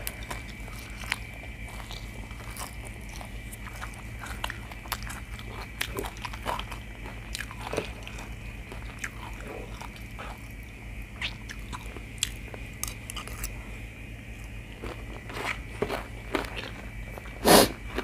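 Close-miked eating: chewing and crunching a mouthful of chicken giblets, rice and raw greens, with wet mouth clicks scattered throughout. A louder, brief crunching noise comes near the end.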